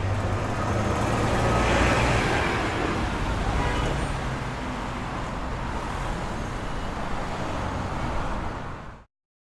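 Steady rumbling noise with a low hum underneath, cutting off abruptly about nine seconds in.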